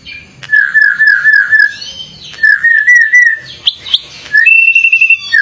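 Male Bali myna singing loudly: two runs of rapid, wavering whistled notes, then a few short sharp notes, and a steady high whistle near the end.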